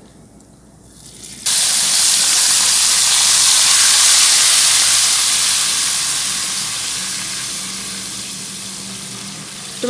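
Tomato paste hitting hot oil and spices in a non-stick wok and sizzling: a sudden loud hiss starts about a second and a half in and slowly dies down.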